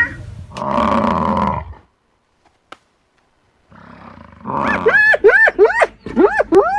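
A big cat gives one short roar lasting about a second. About four seconds in, another animal follows with a quick run of short rising-and-falling calls, about three a second.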